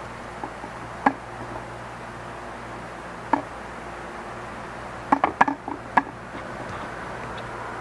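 Sharp clicks and light knocks of small parts and tools being handled while an OMRON H7CN-XLN counter is taken apart: single clicks about a second in and a little past three seconds, then a quick run of four or five between five and six seconds, over a steady background hiss.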